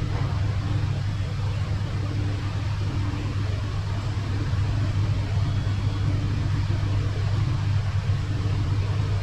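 A steady low mechanical hum, like a motor or engine running, with a fainter higher note that comes and goes.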